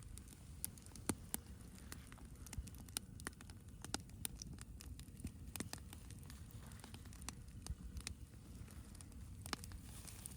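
Campfire crackling: irregular, sharp pops and snaps at an uneven rate, over a low steady rumble.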